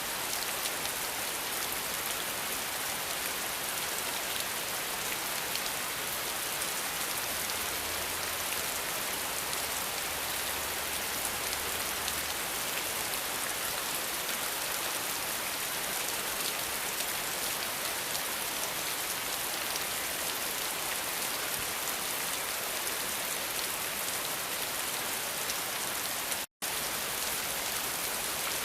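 Steady rain falling in a dense, even hiss of drops. It cuts out to silence for an instant near the end, then resumes unchanged.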